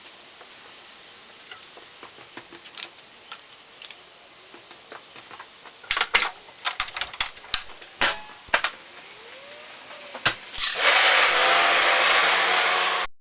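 Quick clicking and clattering of tools and metal parts being handled, loudest from about halfway through. Near the end a loud, steady hissing rush takes over and then cuts off.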